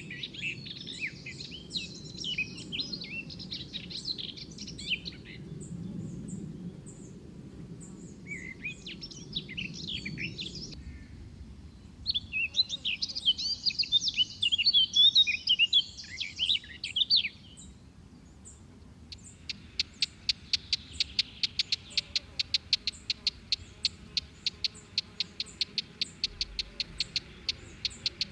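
Songbirds singing in three bursts of quick, varied chirps over a low rumble, then, starting about two-thirds of the way in, a long, steady run of rapid high notes, about five a second.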